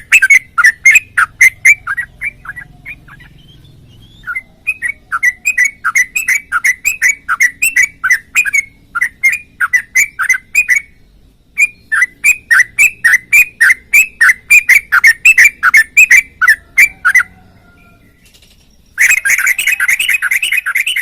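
Sooty-headed bulbul (trucukan) singing a long string of quick, loud, falling notes, about four to five a second, in phrases broken by short pauses. Near the end the notes run together into a denser, faster stretch.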